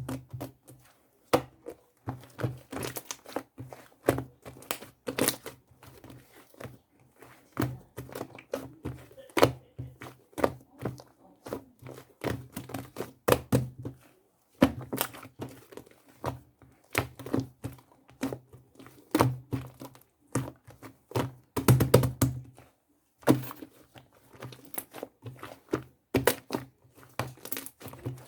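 Irregular clusters of taps, knocks and crinkling.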